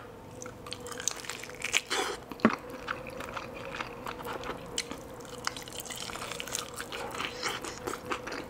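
Close-miked chewing and biting of fried food, with irregular wet clicks and small crunches over a faint steady hum.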